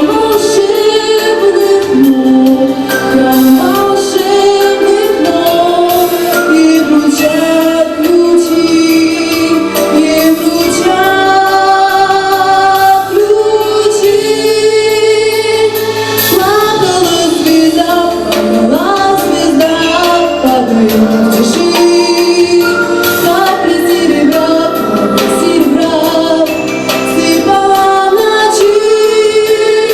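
Female voices singing a song with instrumental accompaniment, the melody gliding between long held notes.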